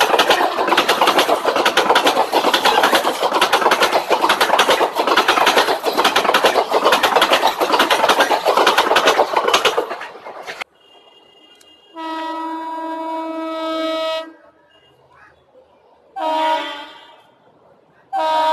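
An Indian Railways express train passing at speed, its wheels clattering over the rail joints, for about ten seconds until it cuts off suddenly. Then a locomotive horn sounds a long blast, a short blast, and another long blast starting near the end.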